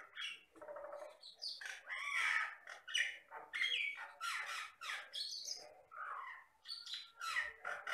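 Common myna (jalak Batam) singing in a rapid, unbroken run of harsh squawks, chirps and short gliding whistles.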